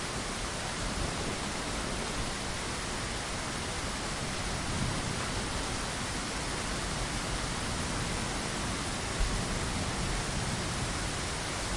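Steady rain falling against a window, an even hiss.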